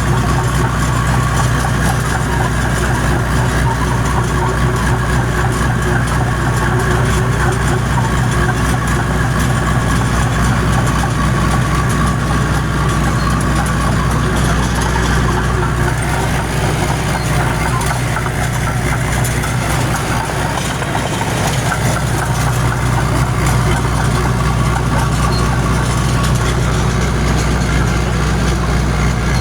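John Deere crawler dozer's engine running steadily under load, a continuous low drone with a brief slight dip in loudness about twenty seconds in.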